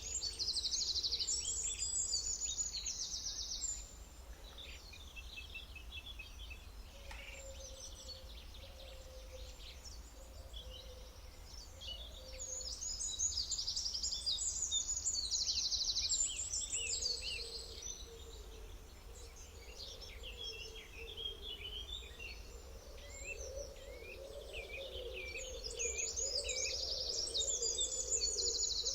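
Songbirds singing and chirping. Loud spells of rapid high trills come at the start, again in the middle, and near the end, with sparser chirps between, over a faint low hum.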